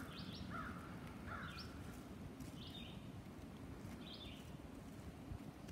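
Wild birds calling in woodland: a string of short, separate calls at two pitches, about one a second, faint over a low background hush.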